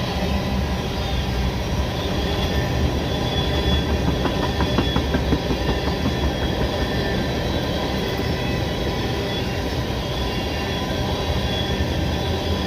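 Freight cars of CN train M301 rolling past, a steady rumble of steel wheels on rail with thin squealing tones from the wheels. A quick run of clicks from the wheels crossing rail joints comes about four to five seconds in.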